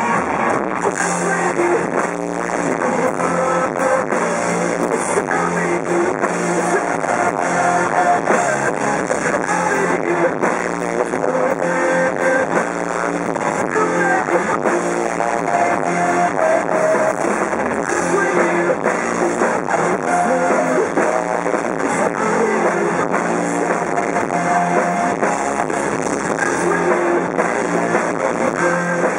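Rock band playing live, loud and continuous, with a steady driving beat.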